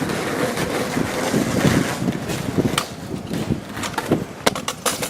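Small hard wheels rolling over rough pavement, a steady rumble with wind on the microphone, followed by a few sharp clacks in the last two seconds.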